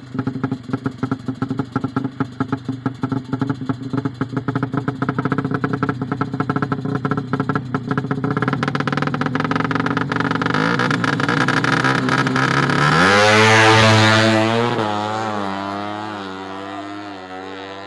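Small racing motorcycle engines running at low revs with rapid, even firing pulses. About 13 seconds in, one accelerates hard, rising sharply in pitch; it is loudest a second later, then fades as the pitch wavers and drops away.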